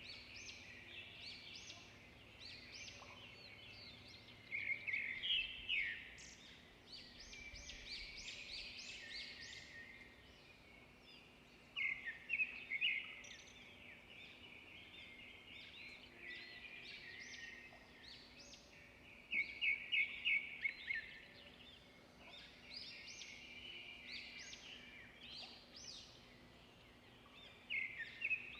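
Songbirds chirping and singing: high twittering with several louder runs of quick, repeated notes.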